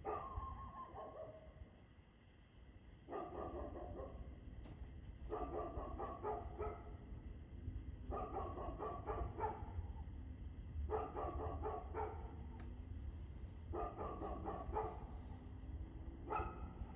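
A dog barking in repeated bouts of several quick barks each, a bout about every three seconds, over a steady low rumble.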